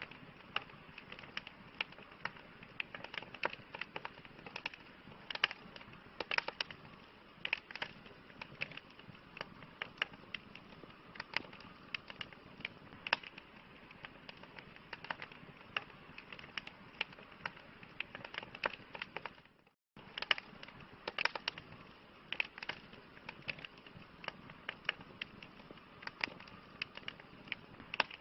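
Campfire crackling: frequent sharp pops and snaps over a steady soft hiss of burning wood. The sound drops out to silence for a moment about two-thirds of the way through, then resumes.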